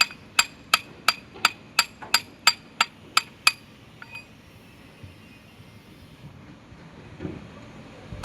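Hammer tapping on metal, about three sharp, ringing strikes a second, stopping about three and a half seconds in.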